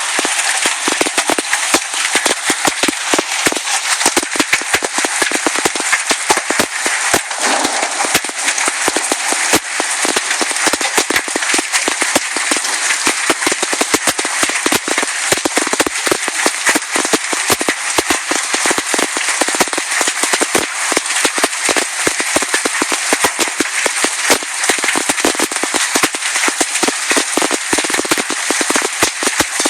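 Hailstones pelting hard surfaces in a dense, unbroken barrage of sharp cracks, many a second.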